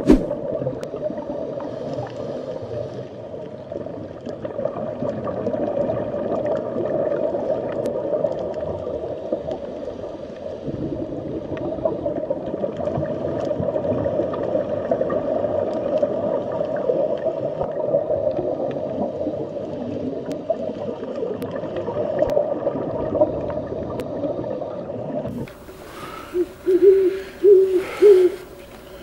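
A steady, dense low sound from an animal that cannot be identified here. It cuts off suddenly near the end, and an owl then hoots several times.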